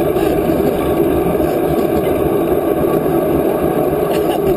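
Steady, loud rushing noise of a bicycle in motion: wind against the microphone and tyres rolling on the trail.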